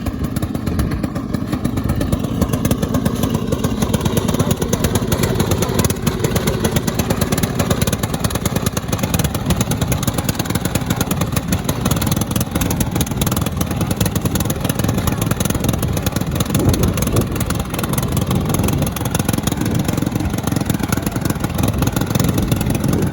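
Briggs & Stratton lawnmower engine running steadily, a rapid even string of firing pulses with no change in speed.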